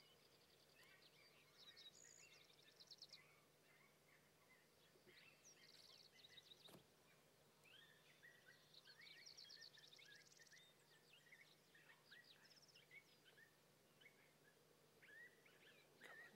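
Faint songbirds singing: quick high trills and short chirps from several birds, with one sharp click about seven seconds in.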